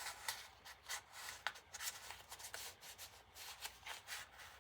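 Paper and card rustling and rubbing as they are handled, with a few light taps, in a series of short irregular strokes.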